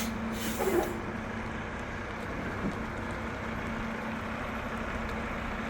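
Truck engine idling steadily, with a short air hiss about half a second in, typical of the air brakes.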